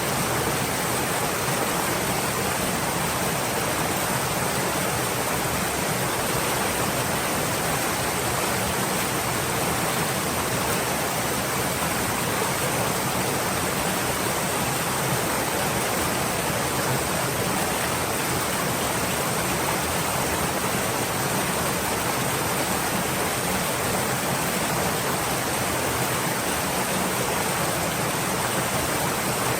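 Stream water flowing, a steady even rushing with no breaks.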